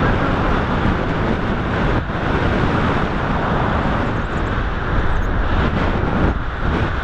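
Strong wind rushing over the camera microphone in flight, loud and steady with a couple of brief lulls.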